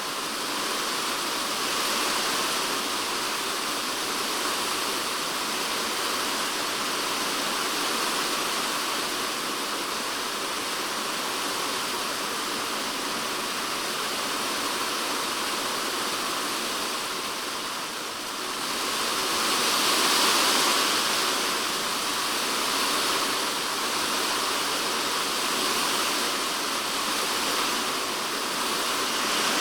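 Typhoon rain falling steadily on a polycarbonate shed roof, heard from inside the shed, with a brief surge in intensity about two-thirds of the way through.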